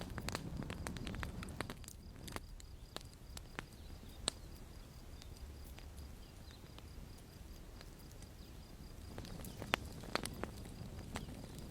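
Campfire crackling: irregular sharp pops and snaps of burning wood over a low rumble of flame, the pops sparser in the middle and busier again near the end.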